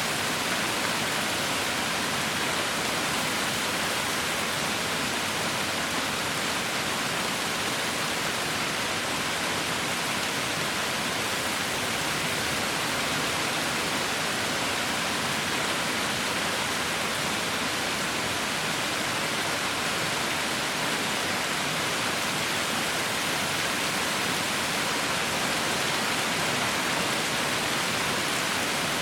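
Heavy rain falling in a steady, even hiss with no individual drops standing out.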